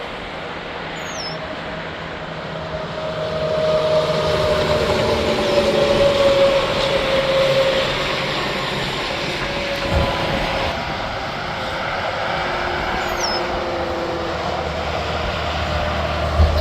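Interstate traffic, with a heavy truck passing: its tyre and engine tone slides down in pitch as it goes by. There is a single knock about ten seconds in.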